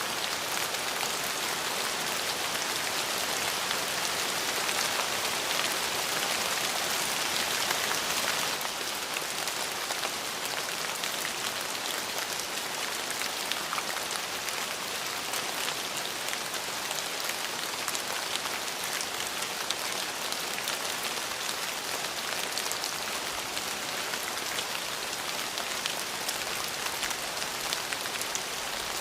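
Steady rain falling, a dense hiss with many small drop ticks, a little heavier for the first eight seconds or so and then easing slightly.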